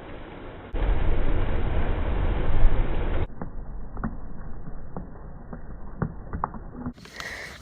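Thunder: a loud, deep rumble breaks in suddenly about a second in and runs for a couple of seconds, then gives way to a quieter stretch of scattered sharp crackles and clicks.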